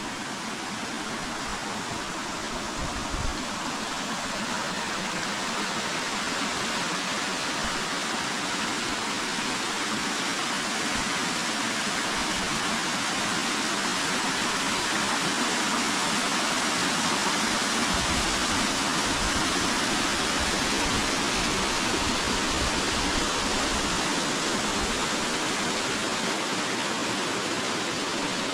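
River water rushing steadily, growing slightly louder over the first half and then holding even.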